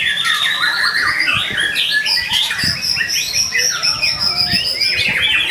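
White-rumped shama singing a rapid, varied song of quick whistled notes and trills, with one long high note held for about two seconds midway.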